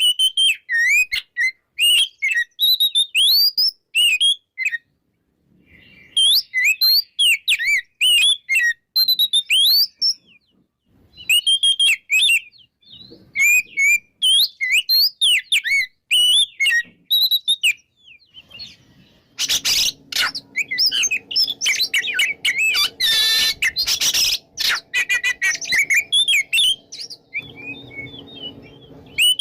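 Oriental magpie-robin (kacer) singing loudly in rapid, varied whistled phrases separated by short pauses. Past the middle it turns into a dense, harsher run of notes for several seconds.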